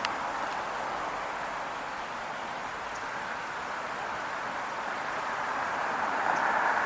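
Steady hiss of passing road traffic that eases off and then builds again toward the end as another vehicle approaches.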